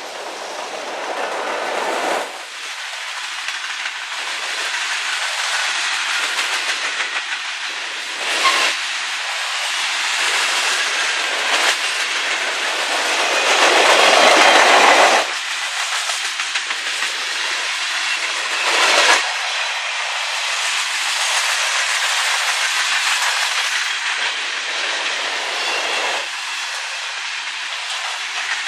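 A train's cars rolling past, wheels clacking over the rail joints in a steady repeating rhythm, with louder swells about 8 s in, around 14 to 15 s, and again near 19 s.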